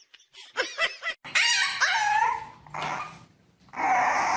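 A dog whining and yelping: a few short clicks about half a second in, then loud calls that slide in pitch, with more calls starting near the end.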